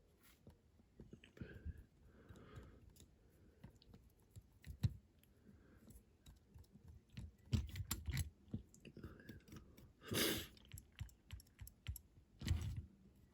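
Scattered light clicks and taps of small parts and tools being handled on a workbench, with a few louder knocks and a brief hiss-like burst about ten seconds in.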